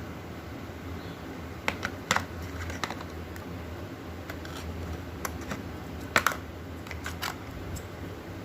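Irregular light clicks and taps of hands handling a smartphone and its packaging, about half a dozen scattered through, over a steady low hum.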